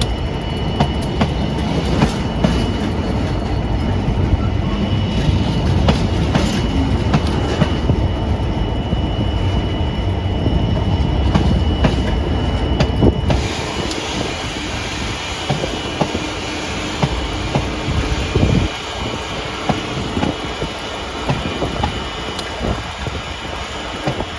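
Train running on the main line, its wheels clicking over rail joints under a steady rumble. About 13 seconds in the sound changes abruptly and becomes quieter.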